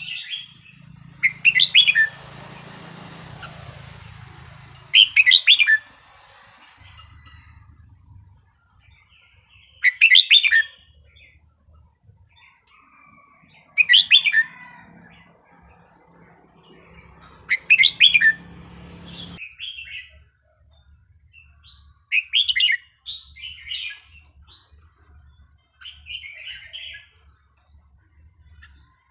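Red-whiskered bulbul of the Vietnamese song type singing loud, short phrases about every four seconds, six in all, followed by softer scattered notes near the end.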